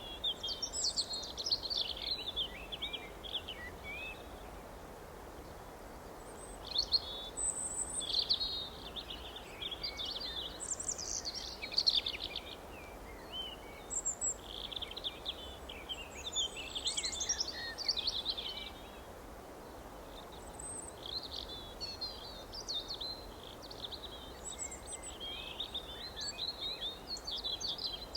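Several songbirds singing and chirping in short, quick phrases over steady background ambience, with brief lulls between bouts.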